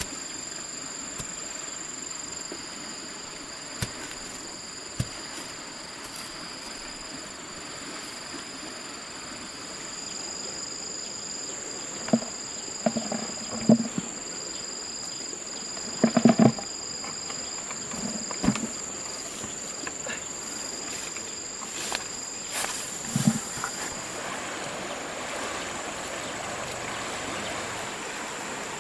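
Insects droning steadily in two unbroken high tones over an even hiss, with a scatter of short, dull knocks in the middle stretch.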